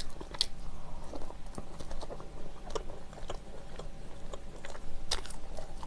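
Close-miked chewing of soft, chewy bread filled with glutinous rice cake: short mouth clicks scattered irregularly through.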